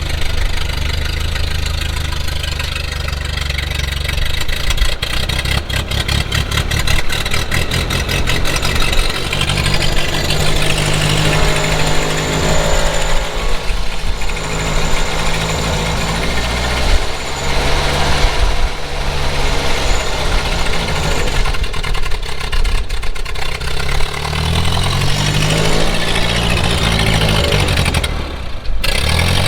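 Ford 9N tractor's four-cylinder flathead engine running unevenly, its speed rising and falling several times and dipping briefly near the end: the engine is being starved of fuel by a rust-clogged filter in the fuel sediment bowl.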